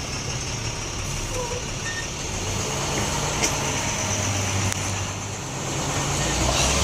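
International 4300 box truck's diesel engine running steadily at low speed, with a couple of faint ticks partway through.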